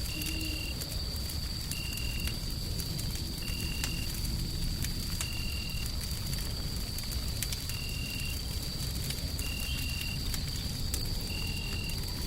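Wood fire crackling in scattered sharp snaps over a steady low rumble of white noise. A thin high whine holds throughout, and a short high-pitched chirp repeats about every one and a half to two seconds.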